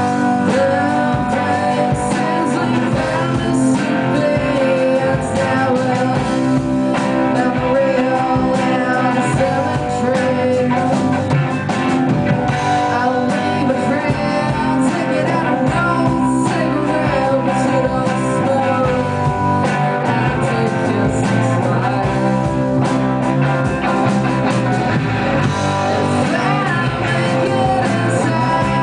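A rock band playing a song, with guitar and singing over a steady beat.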